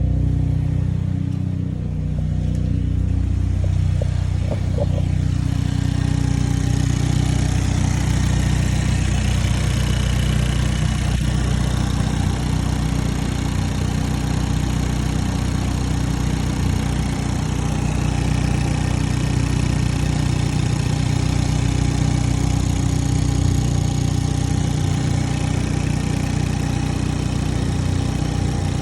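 Hyundai Veloster N's 2.0-litre turbocharged four-cylinder, a freshly installed replacement engine, idling steadily on its first run. A higher hiss joins the idle about five seconds in.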